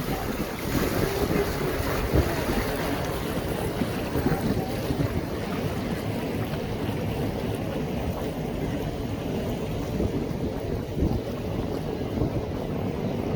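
Wind and water rushing past a passenger boat out on the lake, a steady noisy wash with irregular low gusts buffeting the microphone.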